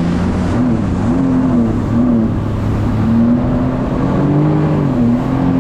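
Sea-Doo jet ski engine running under way, its pitch wavering up and down as the throttle changes.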